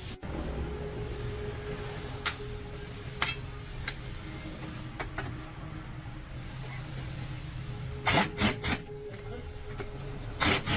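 Workshop work noise: a steady low hum with a faint held tone and a couple of sharp clicks, then two quick groups of three short, loud, hissing bursts near the end.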